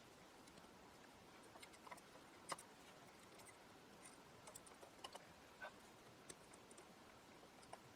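Near silence with scattered faint clicks and taps of small hardware parts being handled, with one sharper click about two and a half seconds in.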